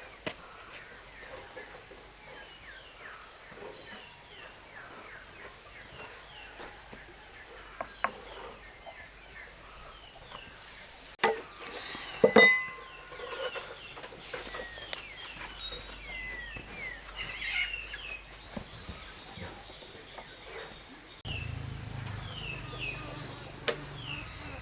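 Birds chirping throughout with many short, falling notes. Two sharp knocks come about halfway through, and a low steady hum starts near the end.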